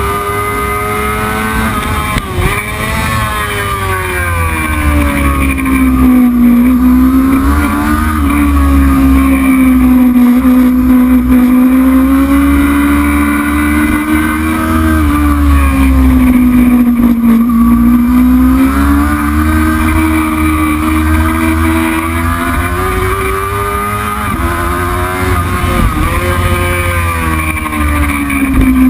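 Racing motorcycle engine running hard through a race lap. Its pitch swings up and down over several seconds as the throttle opens and closes through the gears, dropping sharply about two seconds in, over a steady low rumble.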